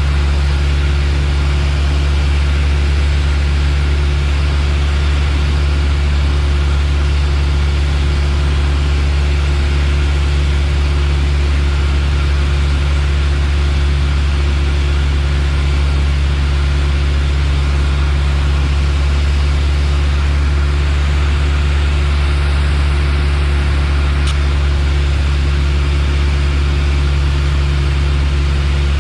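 Piper Warrior's four-cylinder Lycoming engine and propeller droning steadily, heard inside the cabin.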